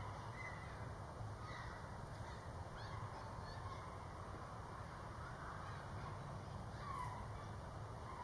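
Faint outdoor ambience: scattered short bird calls at a distance over a low, steady rumble.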